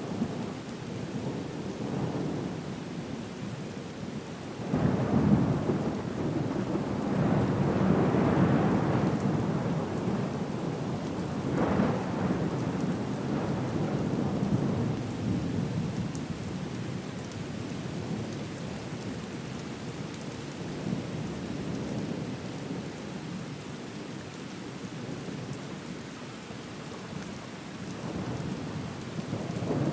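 Steady rain with rolling thunder. The rumbling swells about five seconds in, peaks again around twelve seconds, then eases to a lower steady rumble under the rain.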